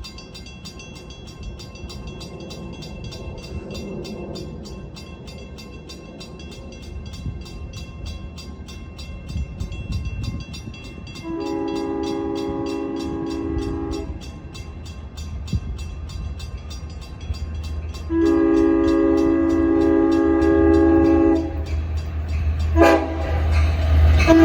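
Long Island Rail Road diesel locomotive approaching with a rising rumble, sounding its horn: two long blasts, a short one, then a fourth beginning, the long-long-short-long grade-crossing signal.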